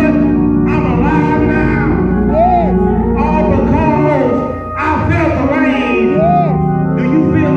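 Church music: held organ or keyboard chords over a bass line, with a voice singing over it.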